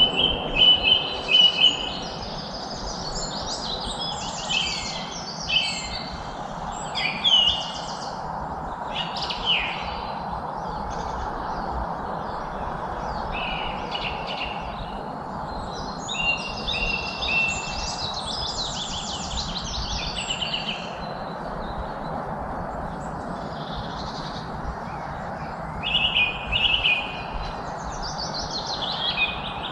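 Songbirds singing and chirping in quick, varied whistled phrases and trills, overlapping one another, over a steady background rush. The song is loudest in the first couple of seconds and again near the end.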